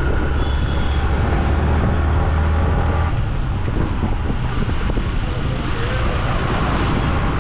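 Riding a motorcycle through city traffic: the bike's engine runs under steady road and wind noise. A strong low engine hum drops away about three seconds in, leaving the broad traffic and wind noise.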